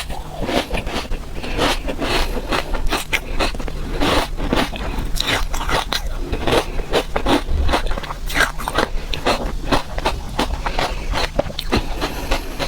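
Frozen ice being bitten and crunched close to the microphone: a dense, unbroken run of sharp, irregular cracks and crunches.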